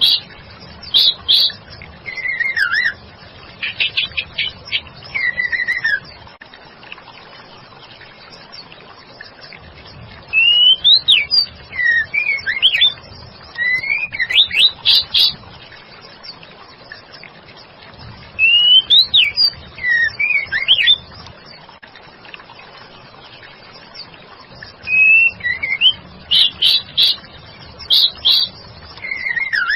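Female white-rumped shama singing: phrases of clear whistled notes that slide up and down, mixed with rapid chips, coming in four bursts a few seconds long with pauses of a few seconds between them.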